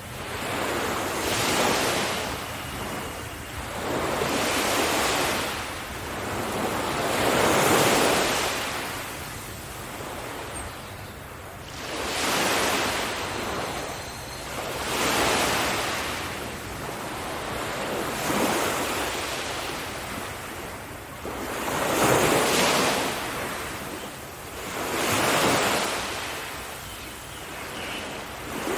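Sea waves breaking on a beach, the surf washing in and drawing back in swells every three to four seconds.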